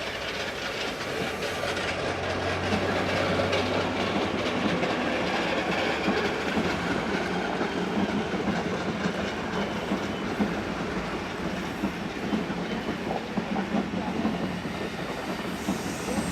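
A train running along the rails, with a steady low hum during the first few seconds.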